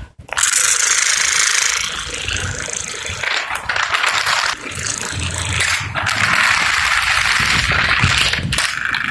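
Loud mechanical rattling and clicking that starts suddenly just after the beginning and keeps going, with a low rumble underneath partway through.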